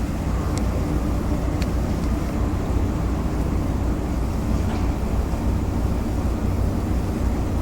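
Car ferry Mishima's diesel engines running with a steady low rumble as the ship pulls away from port.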